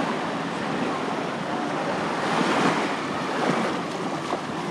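Sea waves washing onto a sandy beach, swelling about two and a half seconds in and then easing off.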